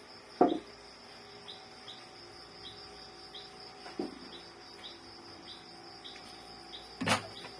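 Three sharp knocks of printer parts being handled and set back in place, the loudest about half a second in, the others at about four and seven seconds. Under them runs a steady high insect hum with a cricket-like chirp about once every 0.7 s.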